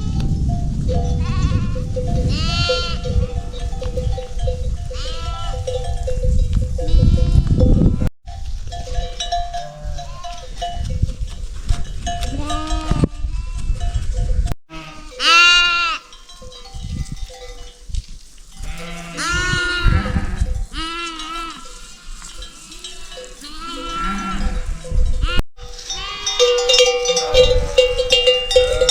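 Goats or sheep bleating over and over, with one loud bleat about halfway, while animal bells ring steadily. Near the end the bells clank densely. A low rumble lies under the first several seconds.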